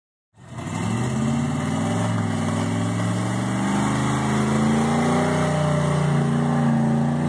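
1994 GMC K1500 pickup's engine running hard under heavy load as it drags the pulling sled, its pitch climbing over the first few seconds and then holding high.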